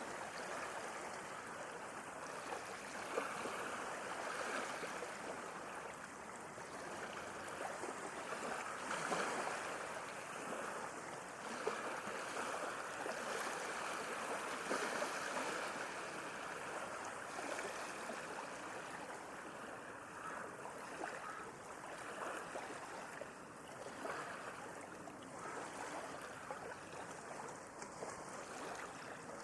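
Sea waves washing and lapping at the shore: a continuous wash of water that swells and eases every few seconds, with small splashes.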